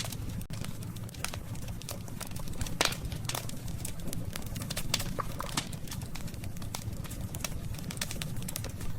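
Wood campfire crackling, with irregular sharp pops and snaps, the strongest about three seconds in, over a steady low rumble.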